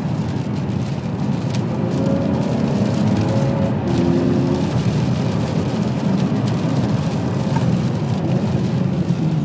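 Ferrari 599 GTB Fiorano's V12 engine running steadily under way, under a heavy low rumble and the hiss of tyres on a wet road.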